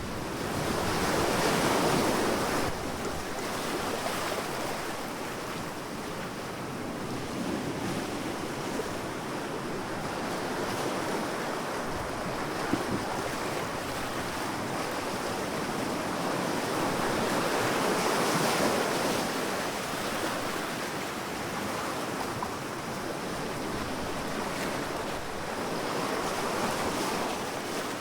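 Sea waves washing onto a sandy beach in a continuous rush, swelling and fading as each wave breaks and draws back, with some wind.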